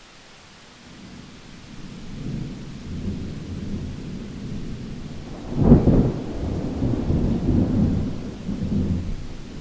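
Thunder over steady rain. A low rumble builds from about a second in, breaks into a loud sharp peak a little past halfway, then rolls on.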